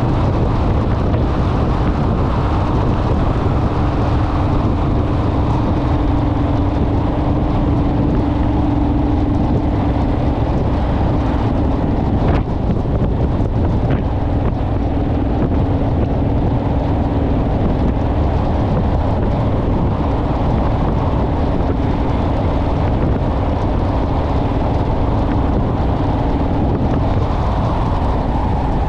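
Honda Rebel parallel-twin motorcycle engine running at a steady pace under way, its note holding steady, under heavy wind rumble on the microphone.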